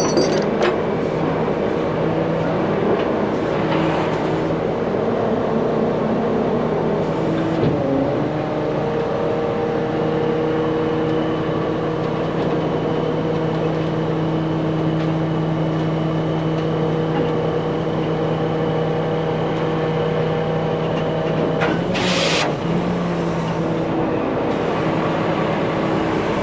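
Heavy truck engine running at a steady speed, its pitch shifting slightly about eight seconds in and again near the end, with a brief burst of noise about 22 seconds in.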